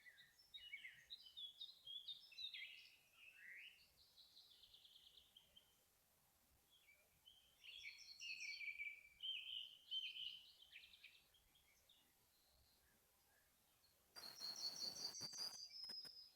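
Forest songbirds singing, several overlapping songs of quick trills and whistled phrases in short bursts with gaps between. Near the end a brief rush of noise lasts about a second and a half under a high trill.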